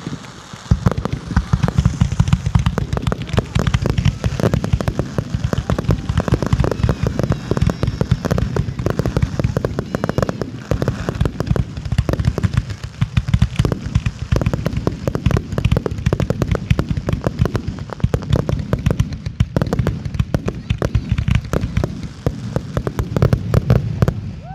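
Fireworks barrage: a continuous rapid string of bursts and crackling reports, many a second, starting about a second in, typical of a show's finale.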